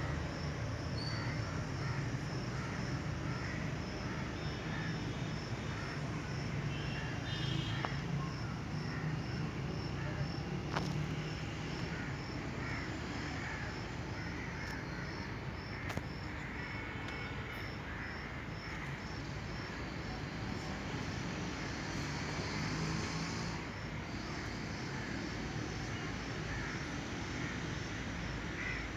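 Outdoor ambience: a high chirp repeating evenly about twice a second, with scattered short animal calls over a low steady hum.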